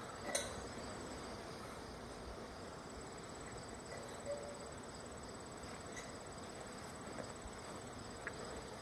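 Honey bee swarm buzzing steadily, with a single sharp knock shortly after the start.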